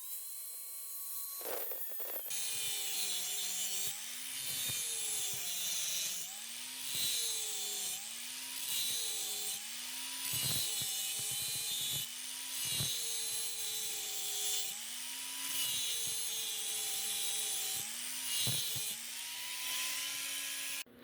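Electric grinder working metal in repeated passes, probably grinding down welds. Its motor dips in pitch each time it is pressed in and picks back up between passes, about every two seconds, over a steady abrasive hiss.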